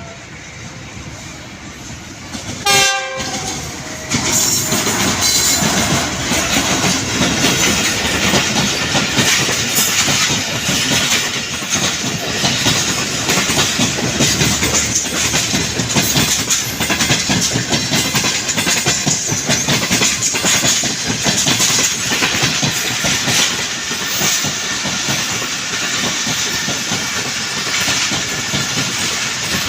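Passenger train led by a GEU 40 diesel-electric locomotive: a short horn blast about three seconds in, then the train passes close by as a loud, steady rush of wheels on rail, with the clickety-clack of the coaches over the rail joints.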